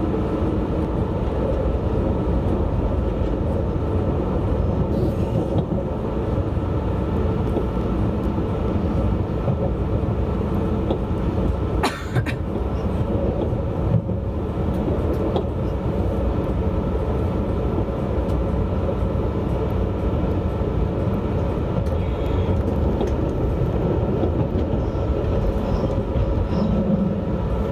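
Alstom Régiolis regional multiple unit running along the line, heard from on board: a steady rumble with a hum of several held tones. Two short sharp clicks about two seconds apart near the middle.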